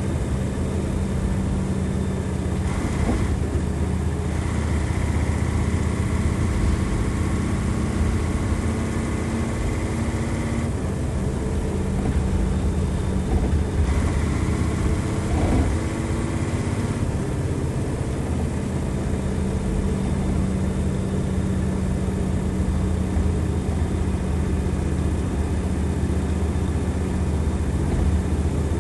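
Bus running with its Nissan Diesel FE92TA turbocharged diesel engine pulling steadily at high revs. A thin high whine, typical of the turbo, rises over the engine note twice.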